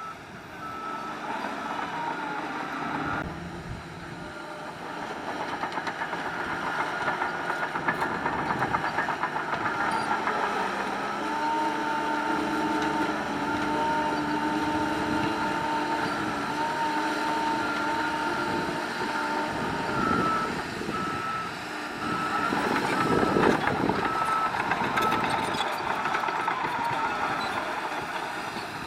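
Diesel engines of a bulldozer and dump trucks running steadily, with a reversing alarm beeping at an even rate at the start and again for several seconds in the last third. A steady whine rises out of the machine noise in the middle.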